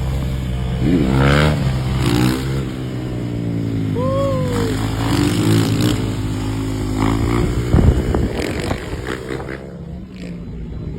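Motorcycle engines revving while riding, the pitch climbing and dropping several times as the throttle is opened and closed.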